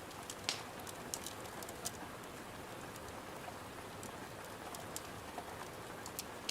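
Steady rain hiss with sharp wood-fire crackles and pops scattered through it, several in the first two seconds and a couple more near the end.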